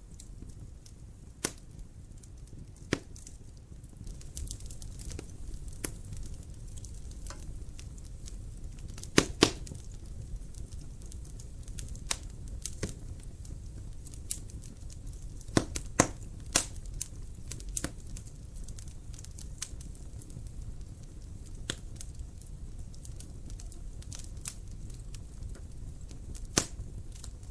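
Wood fire crackling in a fireplace: irregular sharp pops and snaps over a low, steady rumble, the loudest a quick pair about nine seconds in.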